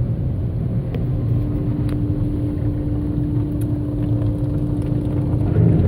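Automatic car wash machinery heard from inside the car's cabin: a steady low rumble with a steady motor hum that sets in about a second in and drops out near the end, plus a few faint ticks.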